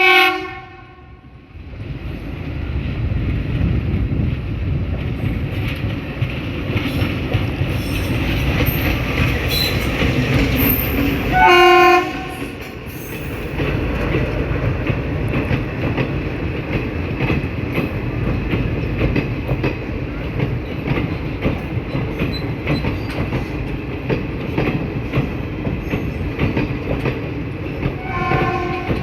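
Train hauled by a WDM3A diesel locomotive, with its 16-cylinder ALCO engine, arriving: a steady rumble of engine and wheels with clickety-clack over the rail joints. The horn gives a brief blast at the very start, a louder one about twelve seconds in, and another near the end.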